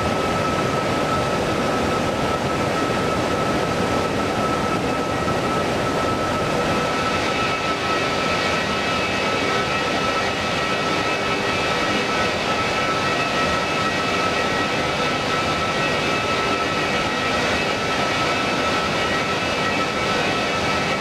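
Jet airliner engines running with a steady whine over a broad rush of engine noise. Higher whine tones join in about a third of the way through.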